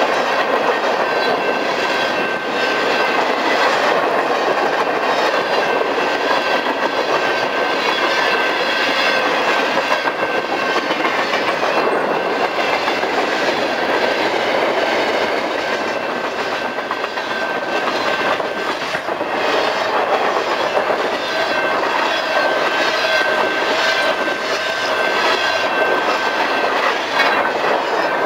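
Freight cars rolling past close to the track: a steady rumble with rhythmic clickety-clack of steel wheels over the rail joints. A thin, steady high tone runs under it.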